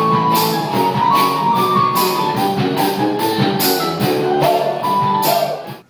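Live band playing an instrumental break of a children's pop song: drums and percussion keep a steady beat under pitched instruments. The music cuts off suddenly just before the end.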